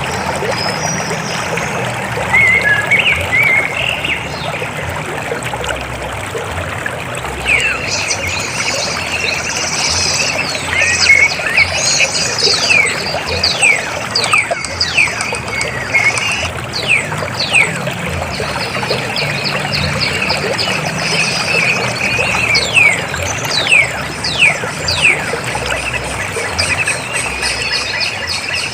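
River water flowing steadily, a constant rushing trickle. From about eight seconds in, a bird calls over it with a run of quick falling whistles, roughly one a second, fading out near the end.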